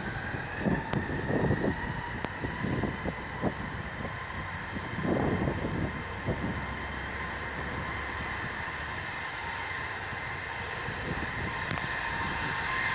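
Jet airliner's engines spooling up for a rolling takeoff: a steady multi-tone whine that rises slightly in pitch and grows louder toward the end, with irregular low rumbles in the first few seconds.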